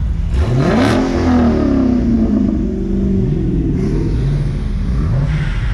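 Car engine revved hard: its pitch climbs sharply about half a second in and sinks slowly back, followed by two shorter blips of the throttle.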